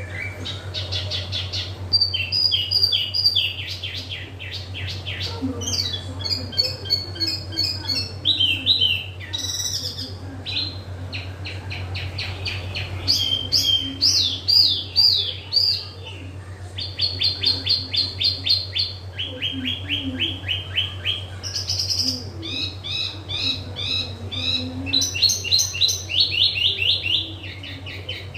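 Wambi songbird singing vigorously and almost without pause: fast trills and runs of quick repeated chirps, switching to a new phrase every second or two, over a steady low hum.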